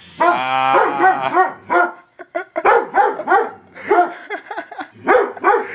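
A dog barking repeatedly at a robot it is agitated by, opening with one longer drawn-out bark, then a quick run of short barks with a brief pause about two seconds in.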